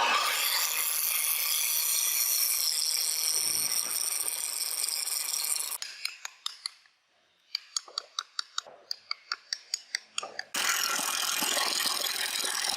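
Tool work on wood: a dense, steady high hiss of cutting or sanding that stops about six seconds in. After a short pause comes a rapid run of sharp clicks, about six a second, like a ratchet, and then the steady hiss starts again near the end.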